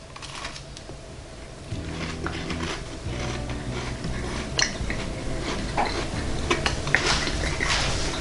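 A person chewing a bite of soft, warm pumpkin chocolate chip cookie, with scattered small clicks. A low steady drone comes in about two seconds in.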